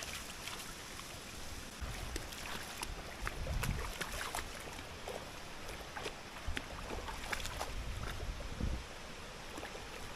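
River water running, with scattered small splashes and gusts of wind rumbling on the microphone.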